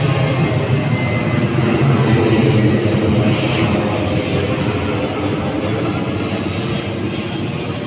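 Aircraft flying low overhead, its engine noise loudest about two seconds in and then slowly fading as it moves away.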